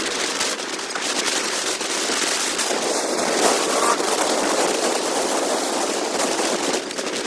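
Wind rushing and crackling over the camera microphone on a moving motorcycle: a steady, dense noisy rush with fine crackle all through it and no clear engine note.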